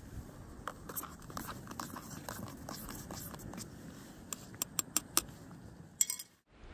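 Irregular light tapping and clicking, with a run of sharper clicks between about four and five seconds in, then a brief burst before the sound cuts off abruptly.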